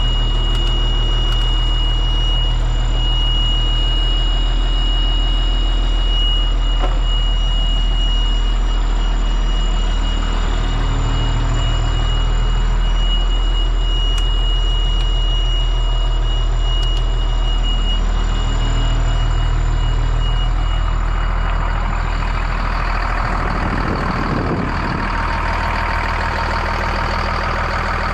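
Cat C7 diesel engine of a Blue Bird All American school bus idling steadily after a cold start. A steady high-pitched tone sounds over it and stops about three-quarters of the way through, after which a hissing noise rises.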